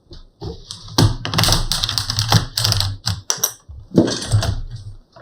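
Plastic pry tool working along the seam of an ASUS ROG GX501VS laptop's back panel: scraping with a run of rapid clicks and snaps as the panel's plastic clips pop loose.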